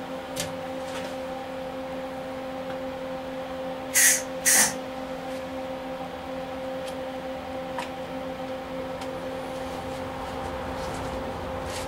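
Two short MIG welder tack-weld bursts on galvanized sheet metal, about half a second apart and about four seconds in, each a brief loud crackling hiss. A steady hum runs underneath.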